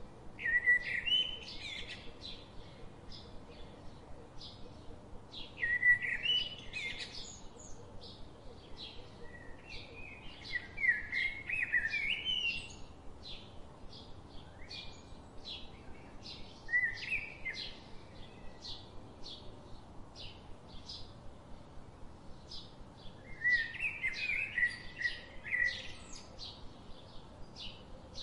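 Forest birdsong: a chattering, warbling phrase of a second or two recurs five times, over a steady run of short high chirps about three a second.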